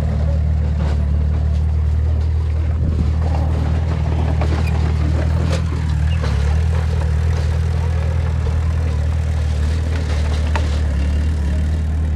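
Heavy diesel engine of an earthmoving machine running steadily at a constant speed, a deep low hum with a few faint knocks over it.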